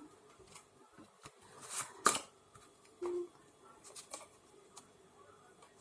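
Faint scattered light clicks and rustles, with one sharper click about two seconds in and a brief low hum about three seconds in.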